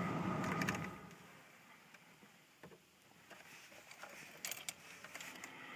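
Mostly near silence, with a faint sound fading out in the first second and a few faint clicks and taps later. No engine is running or cranking.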